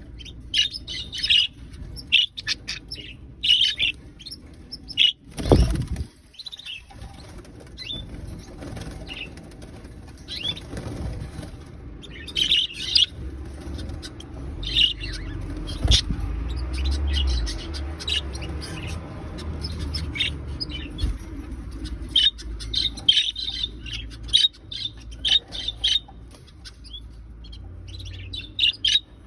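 Budgerigars chirping and chattering in short bursts of high notes that come and go throughout. A brief, louder flurry, likely wing flapping, comes about five seconds in.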